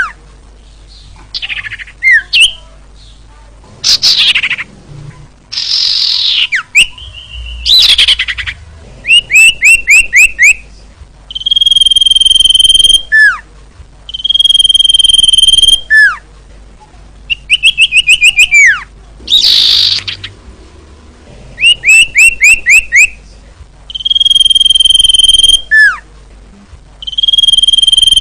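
Female common iora (cipoh) calling: long, steady, high whistled notes, each ending in a quick downward slur, alternating with quick runs of five or six short rising chirps, the pattern repeating every few seconds.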